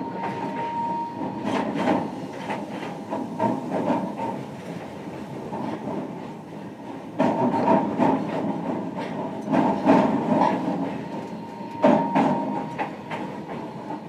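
Running noise of a JR Kyushu 305 series electric train, heard inside its motor car: a steady rumble, with the wheels clacking over rail joints in clusters every few seconds and a faint steady tone underneath.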